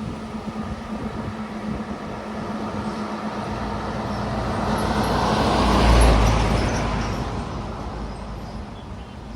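A motor vehicle on the highway approaches and passes, growing louder to a peak about six seconds in and then fading away, heard over steady road and wind noise.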